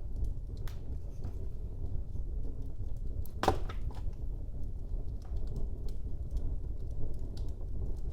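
Wood fire burning in a fireplace: a steady low rumble of the flames with scattered small crackles and one loud, sharp pop about three and a half seconds in.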